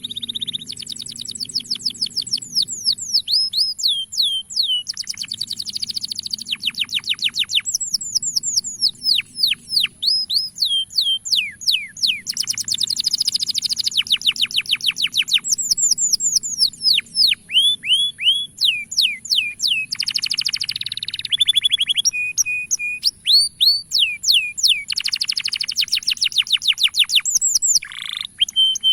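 Male domestic canary singing: long runs of quick, falling whistled notes and rapid trills, with short pauses between phrases. A steady high-pitched tone runs underneath.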